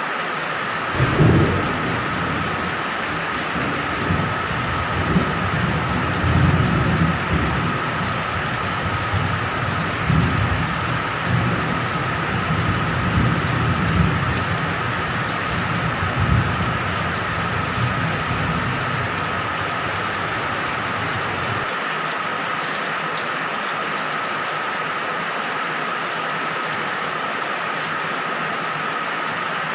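Steady rain falling, with thunder rumbling low and rolling from about a second in, swelling and fading several times before dying away about two-thirds of the way through.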